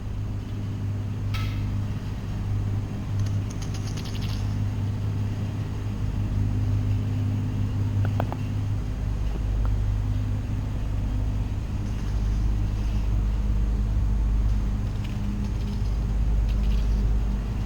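An engine running steadily: a low, even rumble with a faint tick or two about halfway through.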